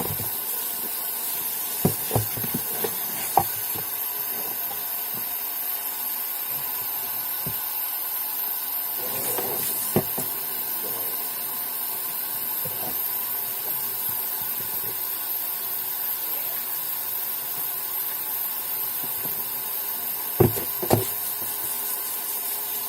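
Steady hiss of running water as a dyed towel is wetted down for its rinse-out, with a few sharp knocks: several in the first few seconds, one about ten seconds in, and two close together near the end.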